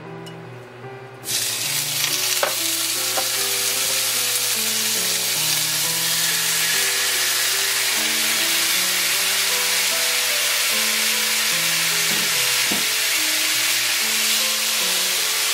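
Smoked duck slices and kimchi frying in a hot nonstick pan. The sizzle starts suddenly about a second in as the meat hits the pan, then holds steady while the food is stir-fried with wooden chopsticks.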